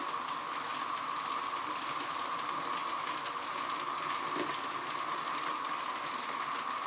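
H0 scale model trains running on the layout: a steady high-pitched whine with a light haze of wheel-on-rail running noise and faint ticks.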